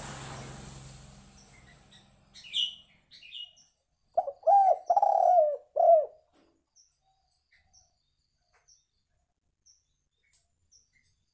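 Spotted dove (tekukur) cooing: one phrase of several low coos about four seconds in. A few short high chirps come shortly before it, and faint small ticks follow.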